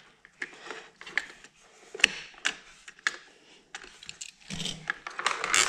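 Small plastic clicks and knocks: toys and a marble clattering on a plastic toy race track, with one sharp click about two seconds in and quicker clatter near the end.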